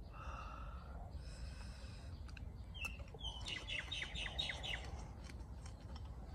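Bird calls over a steady low background rumble: two drawn-out calls in the first two seconds, then a couple of short chirps and a quick run of about seven short notes around the middle.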